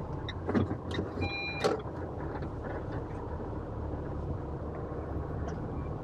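Car moving slowly, heard from inside the cabin: a steady low engine and road rumble, with a few clicks and a short electronic beep a little over a second in.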